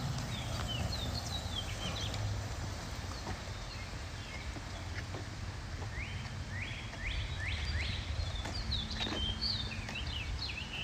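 Songbirds chirping and calling over a steady low rumble of outdoor background noise, with a run of quick repeated chirps in the second half.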